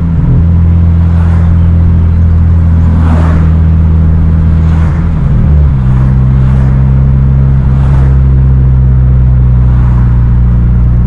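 Turbocharged four-cylinder of a 2014 Hyundai Genesis Coupe 2.0T running under way through a Tomei titanium single exhaust: a loud, steady low drone whose pitch shifts briefly about five seconds in, then settles again.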